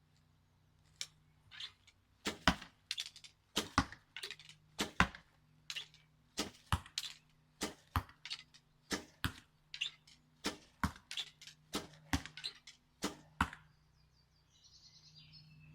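A bow shot in rapid succession, arrows loaded one by one from the quiver: a long quick series of sharp snaps of bowstring and arrow, roughly two a second, some coming in close pairs, stopping about a second and a half before the end.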